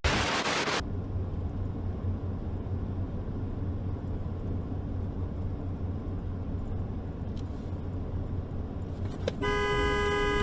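Steady low engine and road rumble of a moving car, with a brief burst of noise right at the start. Near the end a sustained, steady blaring tone with several pitches starts.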